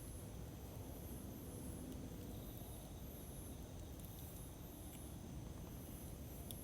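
Campfire burning with a low, steady rumble and an occasional faint crackle, while insects chirp in a regular high-pitched pulse about one and a half times a second.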